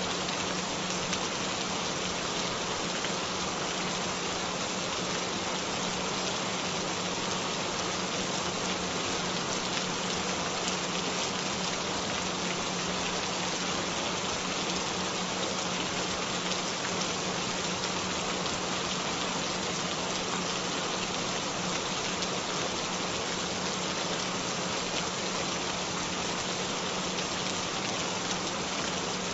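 Steady rain, an even unbroken hiss of falling drops, with a continuous low tone held underneath: the frequency track mixed into the rain.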